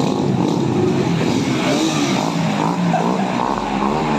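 Motorcycle engine running steadily during a ride, its pitch wavering a little with the throttle.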